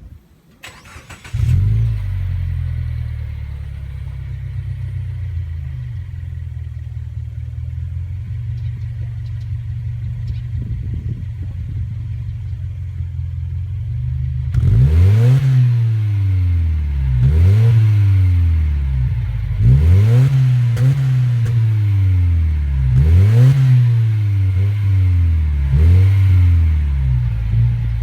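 Subaru WRX S4's turbocharged flat-four starting about a second in through an STI Performance muffler, then idling steadily. From about halfway on it is blipped in a series of short revs, each rising and falling back to idle, about one every two seconds.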